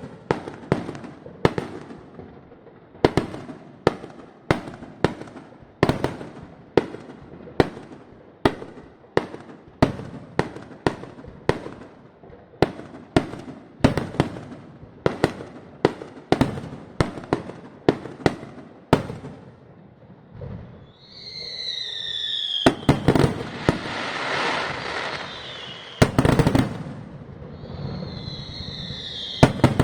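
Aerial fireworks at a display, bursting in a steady string of sharp bangs about one or two a second. Later come several whistling shells falling in pitch, followed by a dense, loud crackling barrage with more bangs and whistles near the end.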